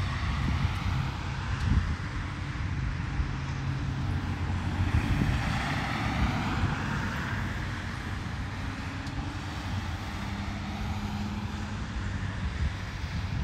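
DJI Mavic 3 quadcopter's propellers buzzing in flight, with a steady low rumble underneath. The buzz swells and fades again about midway.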